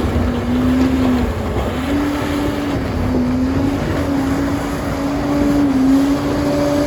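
A Liebherr bulldozer's diesel engine running under load: a steady low rumble with a whine that steps up and down slightly in pitch every second or so.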